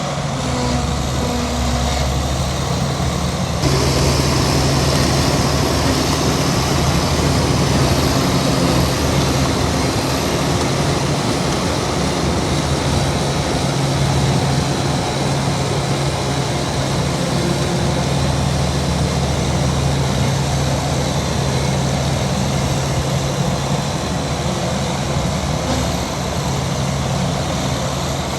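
Heavy diesel engine running steadily under load, growing louder about three and a half seconds in and holding at that higher level.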